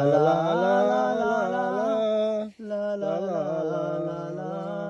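A man singing a Bengali patriotic song in long, drawn-out held notes, with a short break for breath about halfway through.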